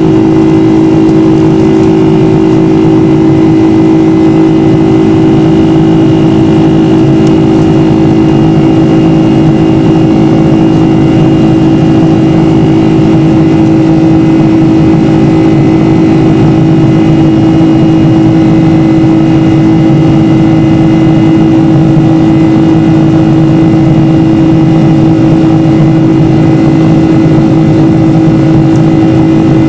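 Boeing 747 jet engines heard from inside the cabin: a loud, steady drone with several steady humming tones that hold at one pitch throughout.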